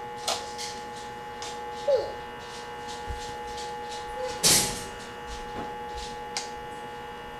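Steady electrical hum of several fixed tones, with scattered light clicks. A small child makes a brief falling vocal sound about two seconds in, and a short noisy burst comes about halfway through.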